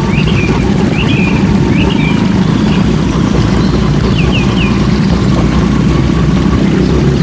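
Motorcycle riding along at a steady pace: a loud, even low rumble of engine and wind buffeting the microphone. A few short high chirps sound in the first few seconds.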